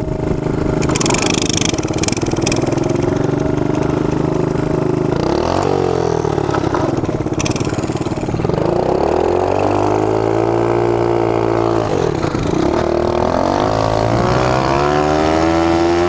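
Mini bike's small engine running hard under load, its pitch climbing and then dropping sharply as it shifts up, about five seconds in and again about twelve seconds in.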